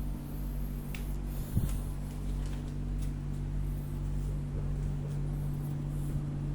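A steady low hum throughout, with a few faint knocks and rustles of handling; the sharpest knock comes about one and a half seconds in.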